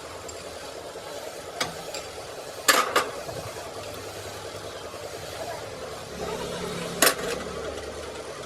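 Workshop sounds during repair of a diesel injection pump: four sharp clicks and knocks, like metal parts or tools being set down or struck, over a steady engine-like drone.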